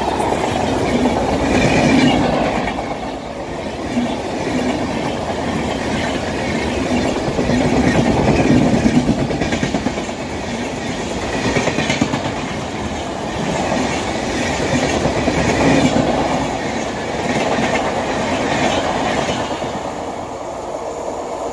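Passenger coaches of the 12822 Dhauli Express passing close by at speed, their wheels clattering rhythmically over the rails in a continuous rushing noise that swells and eases every couple of seconds. The noise eases off near the end as the last coach pulls away.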